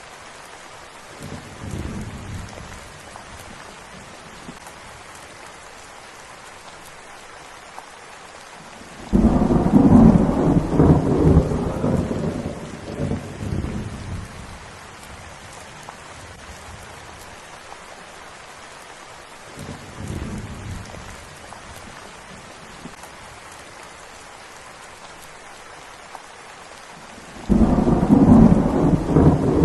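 Steady rain falling, with rolling thunder. A faint rumble comes about two seconds in and another around twenty seconds. Loud rumbles run from about nine to fourteen seconds and build again near the end.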